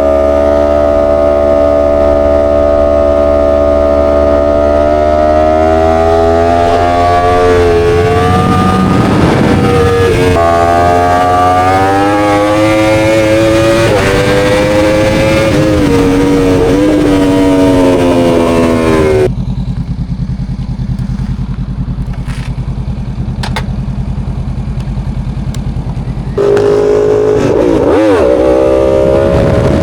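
Motorcycle engine running under way, its note rising and falling as the revs change. For several seconds past the middle it turns muffled and quieter, then comes back full.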